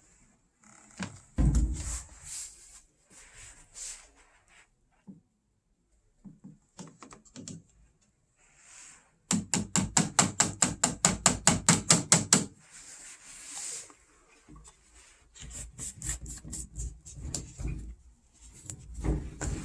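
Handling sounds: scattered knocks and rubbing, with a run of quick, even strokes, about six a second, lasting about three seconds midway.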